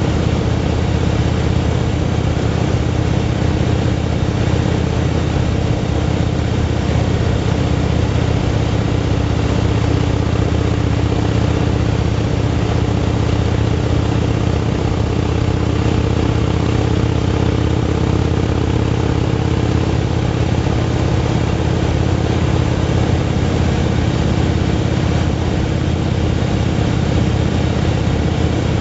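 Motorcycle engine running at a steady, even pitch, with road and wind noise underneath.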